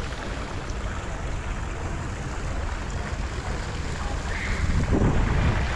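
Wind buffeting the microphone: a steady low rumble that swells briefly near the end.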